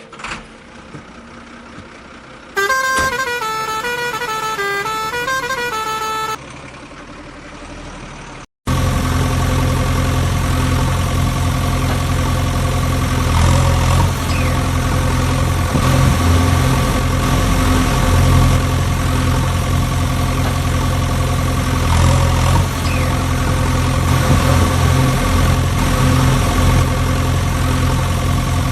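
A vehicle horn plays a short tune that steps up and down for a few seconds. Then, about a third of the way in, a truck engine starts running steadily and keeps going.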